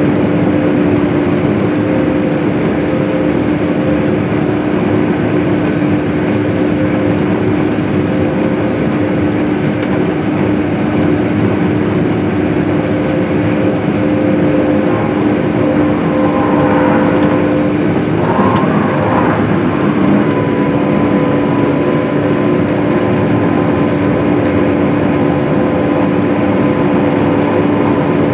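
Case IH hay swather running steadily while cutting hay: a constant engine and machinery drone with a steady hum. About two thirds of the way in, a brief wavering higher tone rises over it and the hum dips for a moment.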